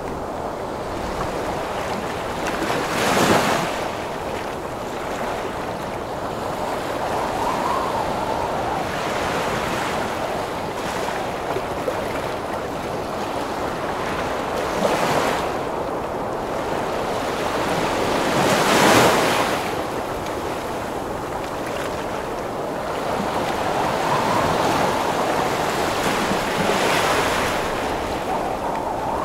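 Heavy ocean waves breaking and washing in under gusting wind, a steady rush with about four louder crashing surges.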